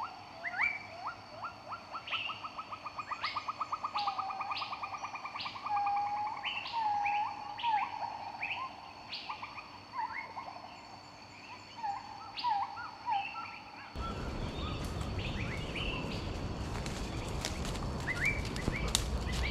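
Several wild birds singing: a fast, even trill, repeated short whistled notes and higher chirps over a faint, steady high insect hum. About fourteen seconds in, a louder rustling background with sharp clicks sets in while birds keep chirping.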